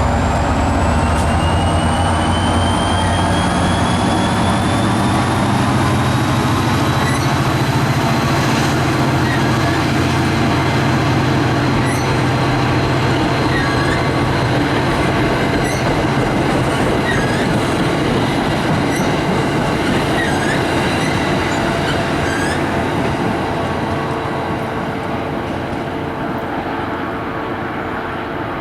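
NJ Transit commuter train running by the platform: a heavy engine and wheel rumble with a whine that rises in pitch over the first several seconds. The sound slowly dies away near the end.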